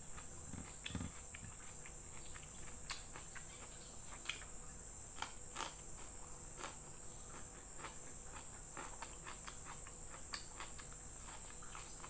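Close-miked eating sounds: soft, irregular clicks and smacks of chewing as fried chicken liver and fried noodles are eaten by hand, over a steady high hiss.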